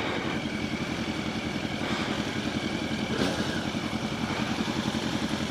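Motorcycle engine running steadily at low revs with an even pulse.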